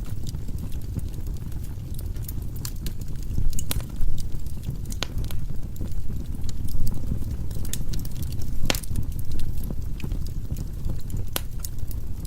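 Firewood burning in a fireplace: a steady low rumble of flames with irregular sharp crackles and pops from the logs, several a second.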